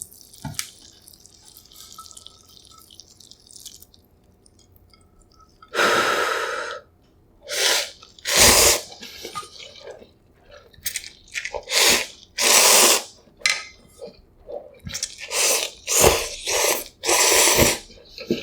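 Close-miked slurping of instant yukgaejang cup ramyun noodles: a string of loud slurps, each about half a second to a second long, beginning about six seconds in, after a few seconds of faint sounds.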